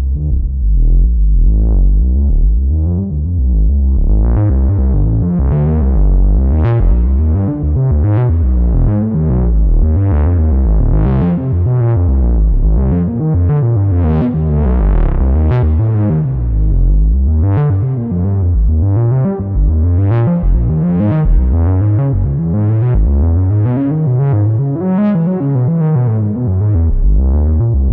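2022 reissue Minimoog Model D synthesizer playing an improvised line of deep bass notes, each note bright at its start and then dulling.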